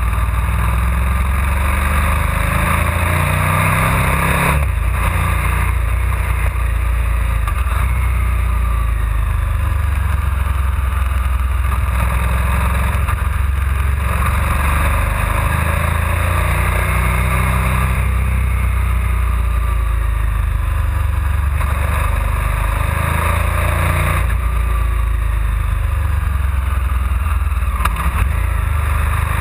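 KTM 990 SMR supermoto's V-twin engine running under way on the road, its pitch rising and falling as the throttle is opened and closed. There is a brief dip about four and a half seconds in.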